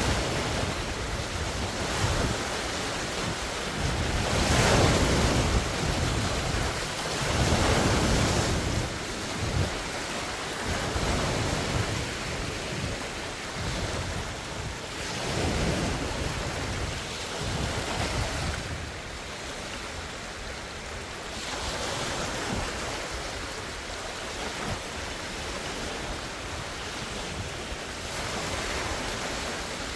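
Large wind-driven waves breaking and washing on a lake shore, swelling and easing every few seconds, with wind buffeting the microphone.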